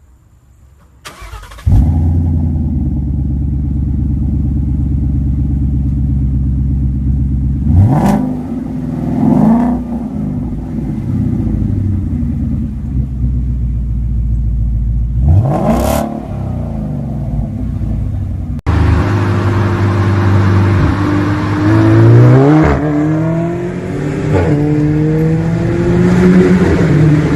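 A car engine with a loud aftermarket-style exhaust starts up a couple of seconds in, settles into a steady idle and is blipped twice. After an abrupt cut, an engine is revved up and down several times.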